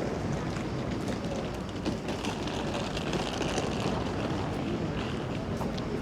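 Steady city street noise, mostly the low rumble of traffic.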